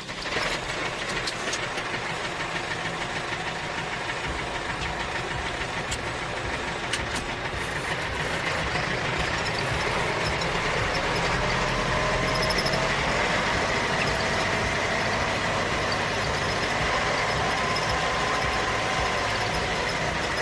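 A motor running steadily, a mechanical hum with a faint whine that gets a little louder about eight seconds in.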